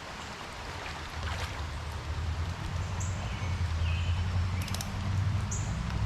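A car on the road approaching, its low rumble building steadily over the hiss of the stream and rain, with a few short bird chirps about halfway through.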